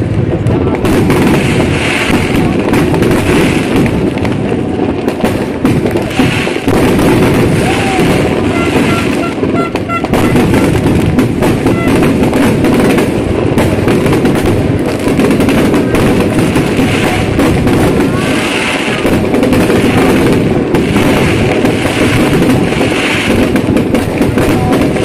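Aerial fireworks display: a dense, unbroken run of bangs and crackling shell bursts.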